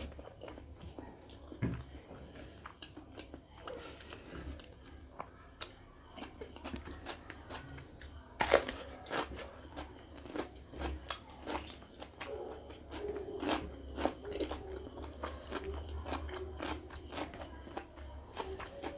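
Close-up eating sounds of a person chewing rice and pork curry taken up by hand: a run of wet mouth clicks and smacks, with one louder sharp click about eight seconds in.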